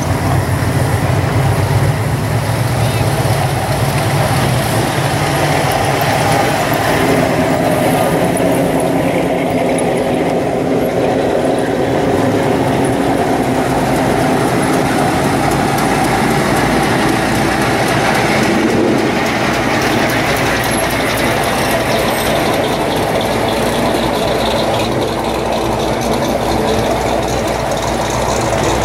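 Classic American cars' engines rumbling at low speed as the cars roll past one after another, a steady low drone with slow swells as each car passes.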